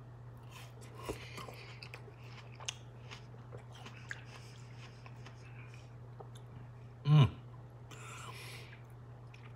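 A person chewing a soft, seasoned piece of mango, with faint wet mouth clicks over a steady low hum. About seven seconds in comes one short, low vocal sound, followed by a brief breath.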